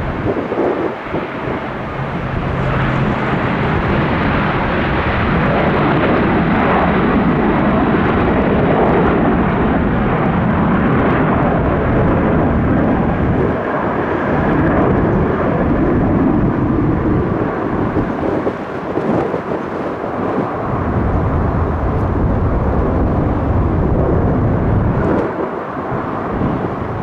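Jet airliner's engines running loud and steady at high power, with wind gusting over the microphone and making the low rumble rise and fall.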